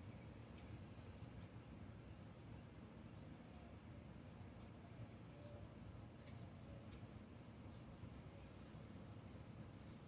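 A small bird's high, thin chirps: short down-slurred notes repeated about once a second, faint over a low background rumble.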